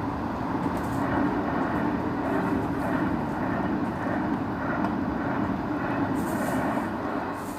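Steady rain falling on lotus leaves, a continuous even hiss with no pauses.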